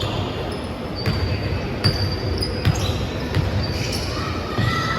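Basketball bouncing on a hardwood court, several irregular thuds, over game noise. Short high squeaks from sneakers on the floor come throughout.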